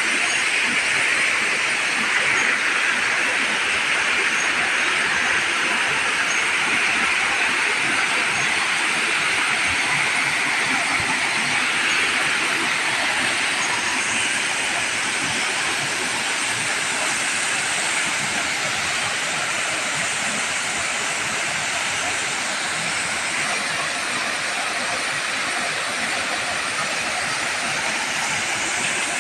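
Waterfall: water pouring over rocks, a steady rushing noise that holds even throughout.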